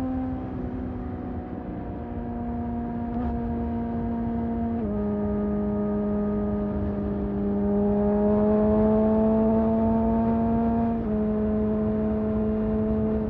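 Sport motorcycle engine pulling under steady light throttle, its pitch slowly climbing and then stepping down at two upshifts, about a third of the way in and near the end, over a rush of wind noise.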